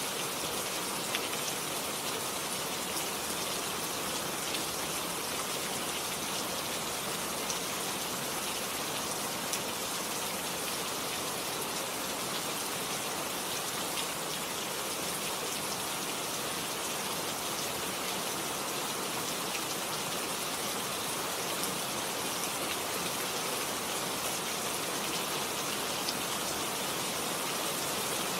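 Steady rain falling: a constant even hiss, with occasional single drops tapping close by.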